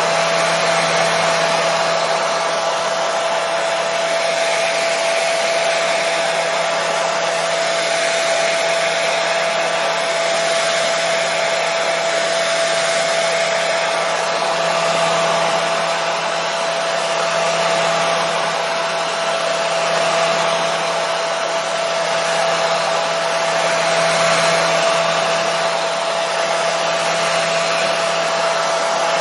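Hair dryer running continuously: a steady, even rush of air with a constant whine from the motor and fan, played as white noise to soothe a colicky baby to sleep.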